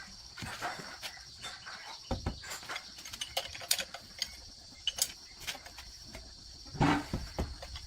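Steady high-pitched insect trilling, likely crickets, with scattered light clicks and knocks and a louder clatter about seven seconds in.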